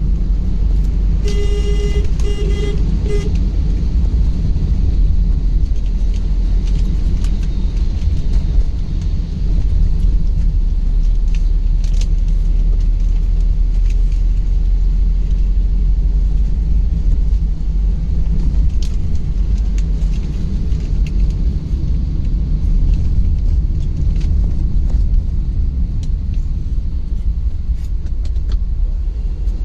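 Steady low rumble of a car driving on the road. About a second in, a vehicle horn honks three short times.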